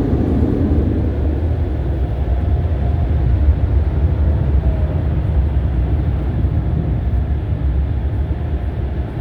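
Automatic touchless car wash spraying water over the car, heard from inside the cabin as a steady low rumble.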